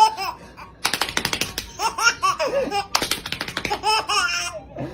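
A baby laughing in several bursts, some pitched and rising and falling, some in quick rattling stutters.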